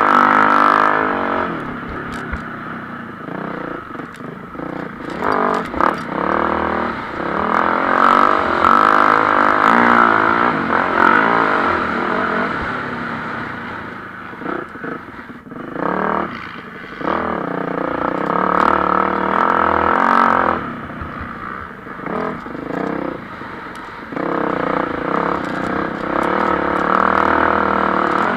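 Mx1-class motocross bike engines revving hard and passing. The engine note swells and drops every few seconds as the riders open and close the throttle around the track.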